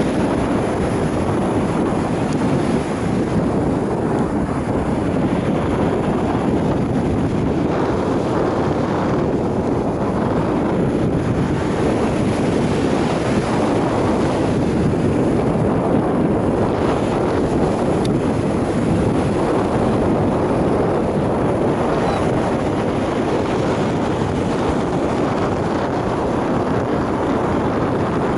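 Steady wind buffeting the microphone, mixed with the rush of sea waves.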